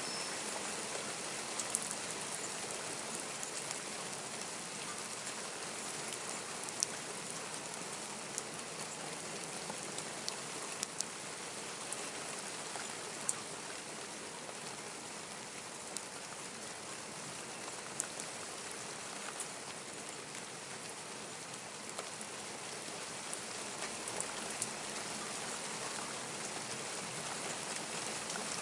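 Steady rain falling, a continuous hiss with scattered sharp drip clicks of drops striking close surfaces.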